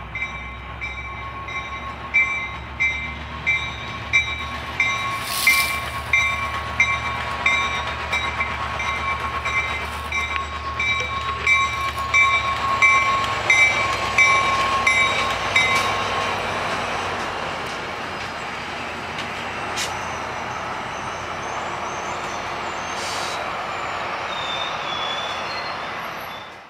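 Trinity Railway Express commuter train. For the first half, repeated ringing strokes about one and a half a second sound over a low rumble and a steady tone. About two-thirds of the way through, the ringing and the rumble stop, and a steady even rail noise carries on.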